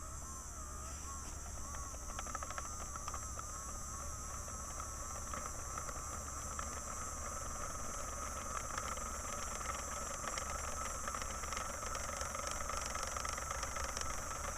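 Small electric hobby motor turning a toy model engine's flywheel through a rubber band, run at full battery voltage with its speed resistors removed. It makes a steady high whine that wavers for the first couple of seconds and then settles, with a fine rattle of the model's moving parts.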